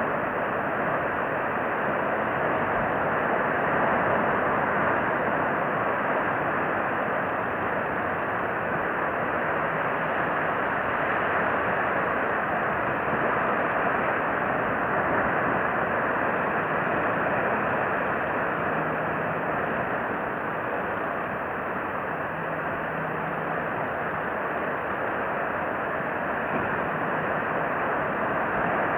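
Steady rushing background noise, even in level, with no distinct calls or knocks.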